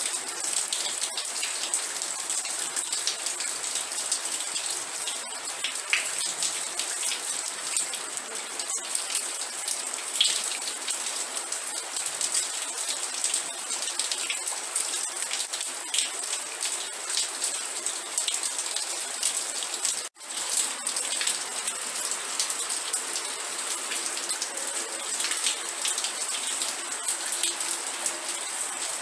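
Steady rain, with many separate drops hitting a surface over a continuous hiss. The sound cuts out for an instant about two-thirds of the way through, then carries on.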